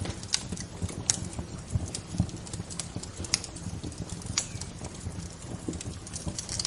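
Wood fire crackling: irregular sharp pops and snaps, a few clearly louder than the rest, over a steady low crackle.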